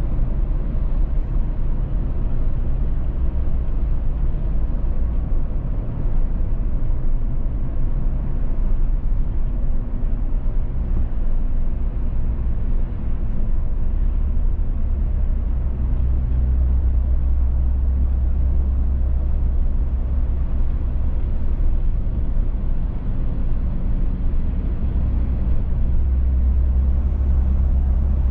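A car on the move: steady low road rumble and tyre noise.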